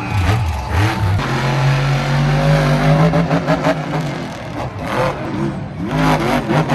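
Monster truck's supercharged V8 engine revving hard: the pitch sweeps up and down near the start, holds steady at high revs through the middle, then rises and falls again near the end.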